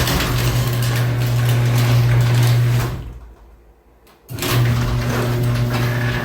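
Electric garage door opener's motor running with a steady hum, fading out about three seconds in and starting up again about a second later.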